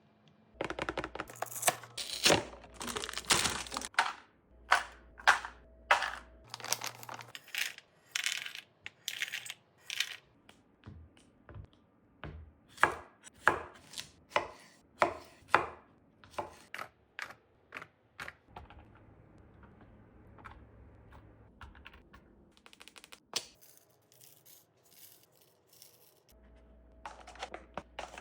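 Food being prepared and packed into snack boxes: an uneven run of sharp taps and clicks, about one or two a second, growing sparser and quieter past the middle and picking up again near the end.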